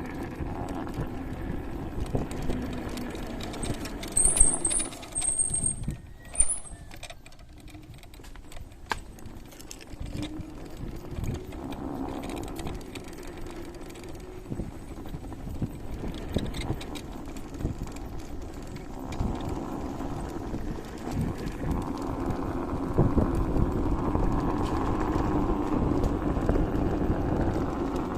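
Jingpin electric scooter being ridden: continuous rumble of the ride with light rattling and clicking of the scooter, and a few brief high squeaks about four to six seconds in.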